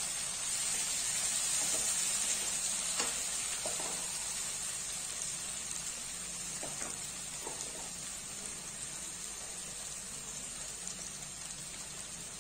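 Tomato masala with garlic and green chillies frying in oil in a pan, a steady sizzle that eases off slightly after a few seconds. A few faint clicks sound around the middle.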